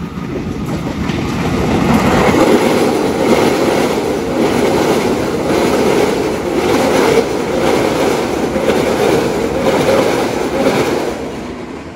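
Electric commuter train (EMU) rolling past at low speed on a short rail bridge after pulling out of the station, its wheels clattering over the rail joints in a steady rhythm. The sound builds over the first two seconds and fades near the end as the last car goes by.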